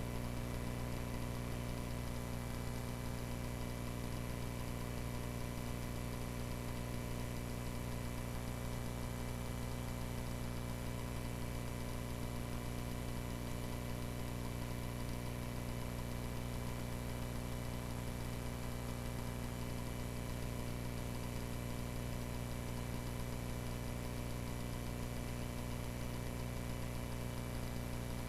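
Cessna 140A's four-cylinder piston engine droning steadily, heard as a muffled hum through the cockpit intercom, with no change in pitch or power.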